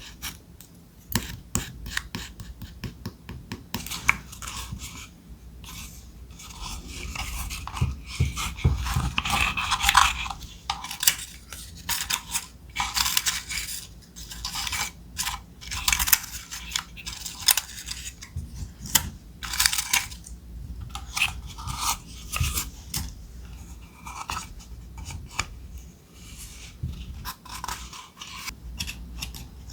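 Close-miked handling of thick paper: irregular rustling, sliding and crinkling, broken by scattered light taps and clicks.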